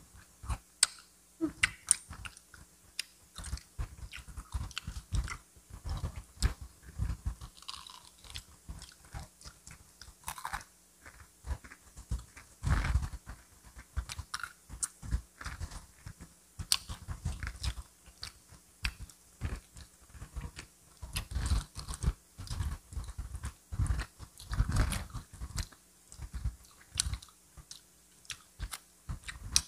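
Close-miked chewing and biting into crispy fried chicken: irregular crunches of the crisp coating and chewing sounds, several a second.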